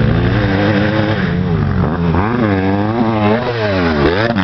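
Honda CRF150 motocross bike's four-stroke single-cylinder engine revving up and down over and over as the rider works the throttle around the track. A brief knock near the end.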